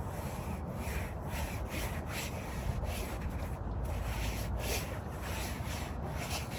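A hand rubbing along the inside of a fat-bike tire's rubber casing in repeated strokes, about two a second. The hand is feeling for a thorn left over from a puncture.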